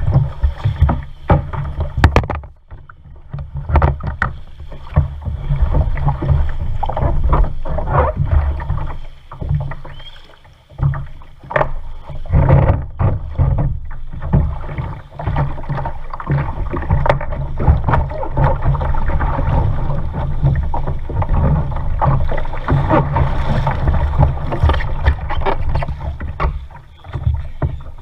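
Kayak paddling: paddle strokes splashing and water sloshing against the hull, over a heavy low rumble, with brief lulls twice.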